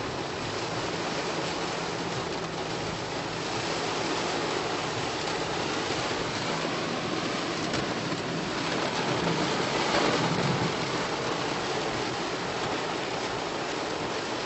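Heavy rain falling: a steady, even hiss that swells a little about ten seconds in.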